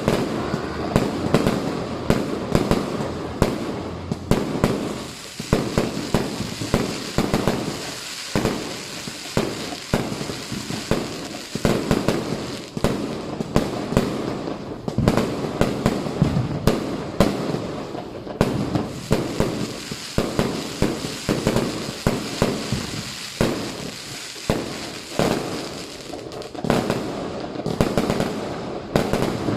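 Fireworks and firecrackers going off in a dense, unbroken barrage: overlapping bangs and crackling, several loud reports every second.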